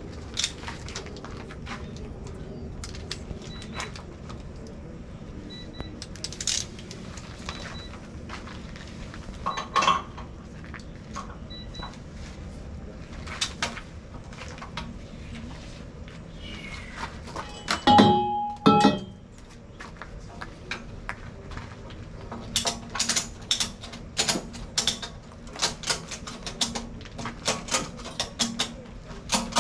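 Hand tools clanking and clicking on a backhoe hydraulic swing cylinder during disassembly. One louder metallic clang rings briefly about eighteen seconds in, and quick runs of clicks follow from about twenty-two seconds on.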